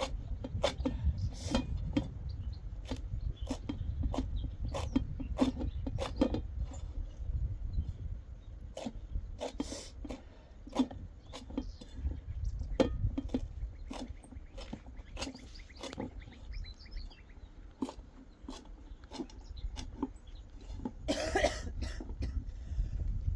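Irregular sharp clicks and knocks, about one or two a second, over a steady low rumble of wind on the microphone. About 21 seconds in comes a longer, harsher burst that sounds like a cough from a woman with a chest cold.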